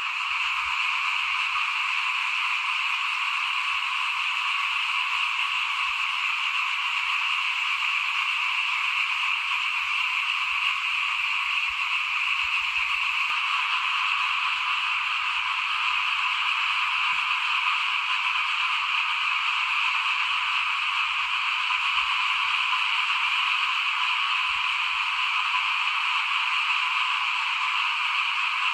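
Chorus of many small frogs (khiat) calling at once, a dense, steady din with no breaks.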